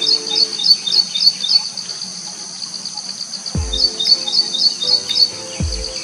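A small bird chirping in two quick runs of high notes, about four a second, over a steady high insect buzz. Background music with held low tones and two deep downward slides sits underneath.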